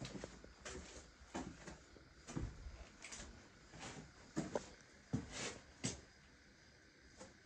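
Irregular knocks and clatters from hand work during construction, roughly one every half second to a second, stopping about six seconds in.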